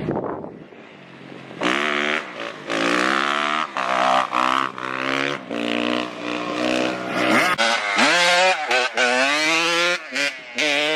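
Dirt bike engine revving hard, its pitch climbing in repeated sweeps with short breaks between them, as when accelerating up through the gears. Near the end the throttle is blipped on and off rapidly.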